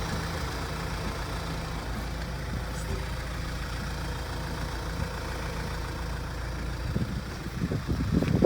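An engine idling with a steady low hum. From about seven seconds in, uneven louder low rumbling builds toward the end.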